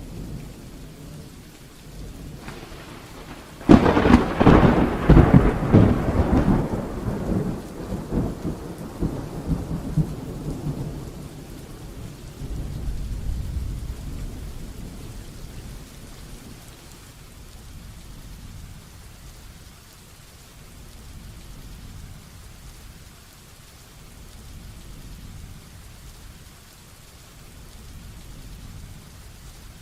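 Heavy rain falling steadily. About four seconds in, a sudden loud thunderclap breaks out and crackles and rumbles for several seconds. A lower rumble follows, then it dies away into the rain.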